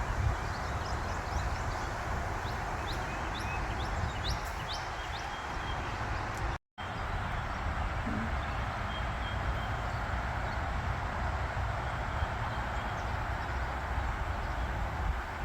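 Outdoor ambience: small birds chirping over and over above a steady low rumble. The sound cuts out for an instant about halfway through, and after that the chirps are sparse and faint.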